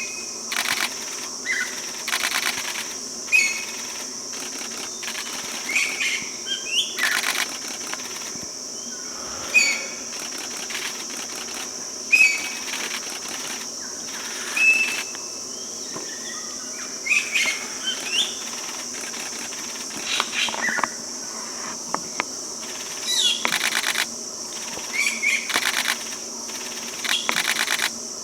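Birds calling: short chirped notes every two or three seconds, and dry rattling bursts lasting about half a second. A steady high insect drone runs beneath.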